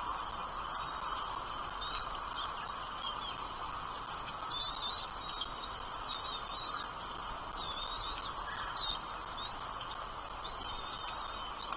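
Small birds chirping in quick clusters of short, rising and bending high notes, coming in bursts every couple of seconds over a steady background hiss.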